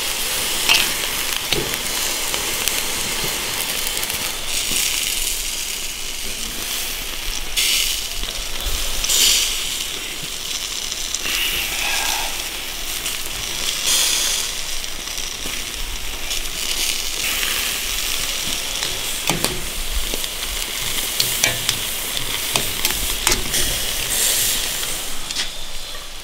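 Leafy greens sizzling in a perforated stainless steel grill pan over a grill grate, stirred and tossed with metal tongs. The sizzle is steady and gets louder now and then as the greens are turned.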